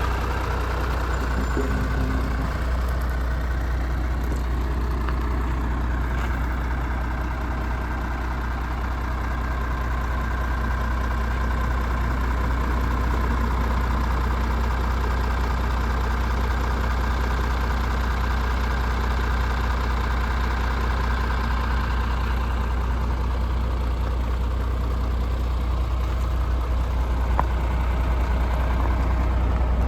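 MAN TGX 26.470's 470 hp straight-six Euro 6 diesel engine idling, a steady low rumble.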